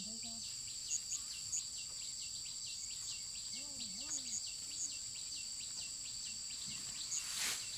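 Insects shrilling steadily in a high, continuous trill, with a repeating chirp about three times a second and a few short, sharp high chirps, the loudest just after the first second. A faint distant voice comes about four seconds in, and a brief rustle near the end.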